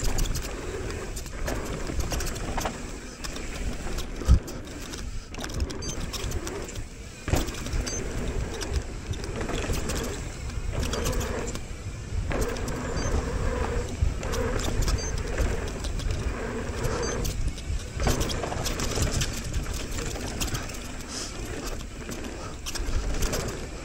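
Mountain bike rolling down a dirt trail: tyre noise with the chain and frame rattling over bumps in a steady run of small clicks and knocks.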